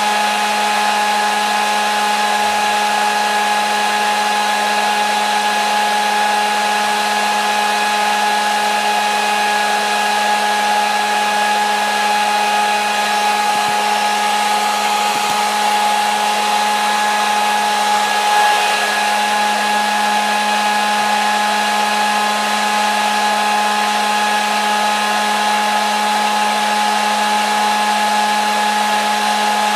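Hair dryer running steadily: a constant rush of blown air with an unchanging motor hum and whine, used as white noise to lull a baby to sleep.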